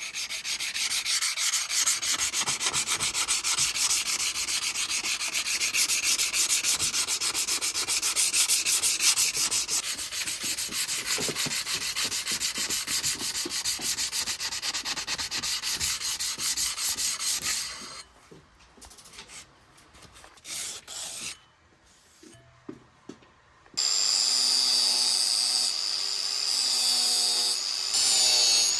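Abrasive sanding of a steel knife blade: a dense, fast rasping for most of the clip. It stops, leaving a few seconds of near quiet with a few light knocks, and then a small motor starts with a high steady whine.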